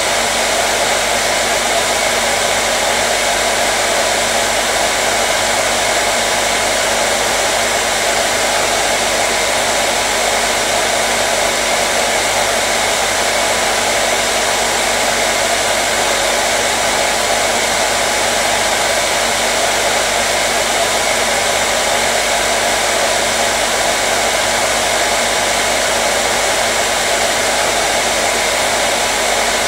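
Hair dryer running steadily on one setting: an even, loud rush of blown air over a faint motor hum, unchanging throughout.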